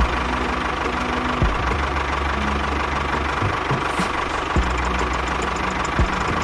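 Mini tractor engine running steadily with a low knocking beat, with a few short thumps.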